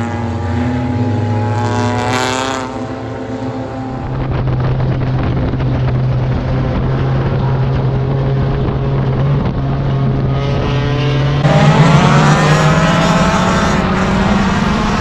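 Race car engine running at a steady pitch, then getting louder with its pitch rising as it revs up, about eleven seconds in.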